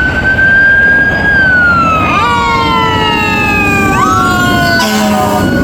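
Fire engine sirens wailing, pitch rising and falling in long sweeps, with a second siren tone joining about two seconds in and one winding back up near the end.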